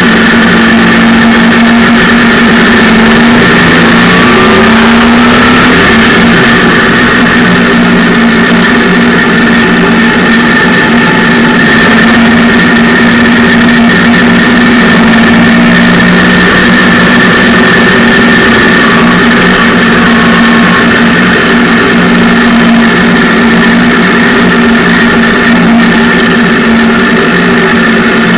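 Daihatsu Charade 1000cc three-cylinder engine in a pipe car running loud and steady, with a brief rise in revs about four seconds in.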